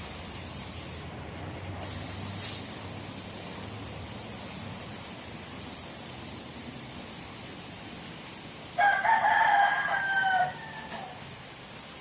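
A rooster crows once, a loud call lasting about a second and a half, starting nearly nine seconds in. It sounds over a steady background hiss that drops out briefly about a second in.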